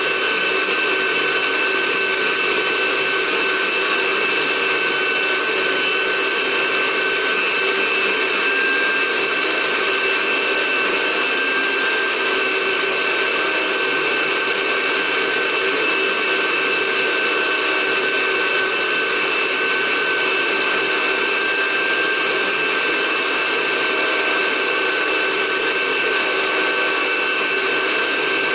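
Electric blender running steadily, grinding bird feed. It gives a constant motor whine that holds one speed throughout, with no pauses or changes.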